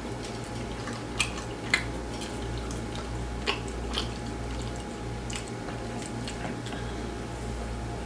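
Close-up chewing of grilled chicken: scattered wet mouth clicks and smacks, with louder ones about a second in and around three and a half to four seconds, over a steady low hum.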